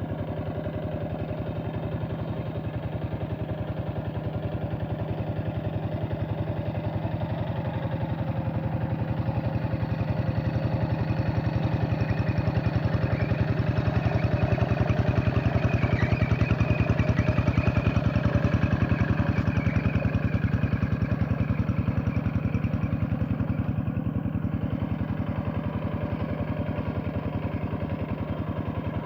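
Tractor engine running steadily under load while puddling a flooded, straw-covered rice field, a rapid even chugging. It grows louder toward the middle and eases off again near the end.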